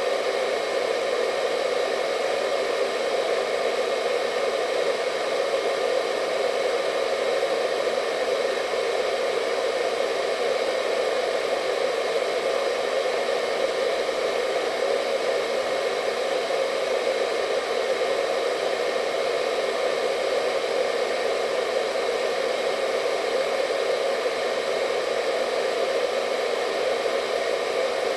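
Hair dryer running continuously: a steady airy rush with a faint motor whine over it, unchanging in level.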